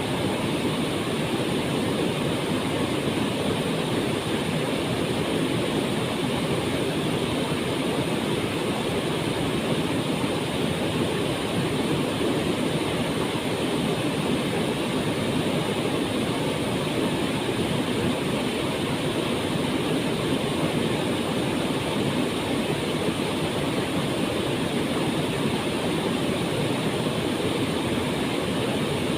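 Waterfall pouring steadily into its pool: a constant rushing of water that does not change.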